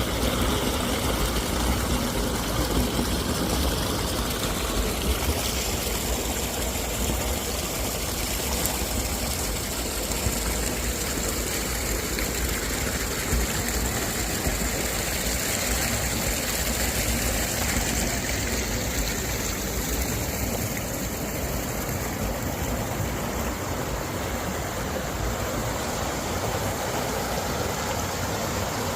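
Flowing water rushing steadily, an even noise with no breaks.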